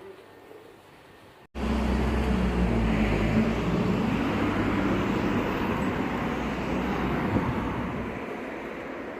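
A motor vehicle passing close by: engine hum and road noise start suddenly about a second and a half in, hold steady, then fade away over the last couple of seconds.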